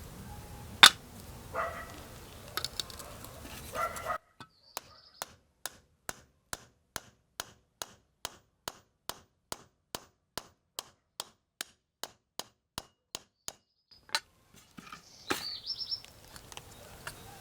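Light tapping at a steady pace, about two and a half taps a second, after a few sharp knocks and some clatter at the start, typical of a small hammer working a brass strip for a fishing lure.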